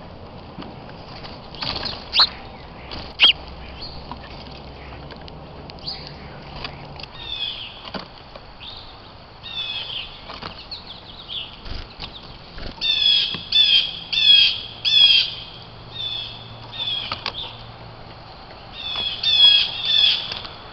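Small birds chirping in short repeated bursts of high notes, with a few sharp clicks and wing flutters, the chirping busiest a little past halfway and again near the end.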